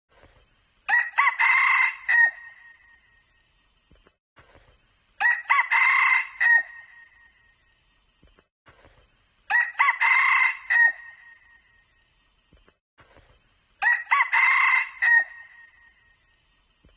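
Red junglefowl rooster crowing four times, about every four seconds. Each crow is short and clear and ends on a clipped high note.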